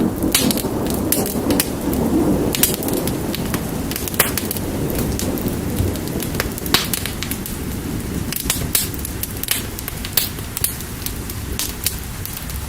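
Fire crackling with frequent sharp pops over steady rain. A low rumble in the background eases off about halfway through.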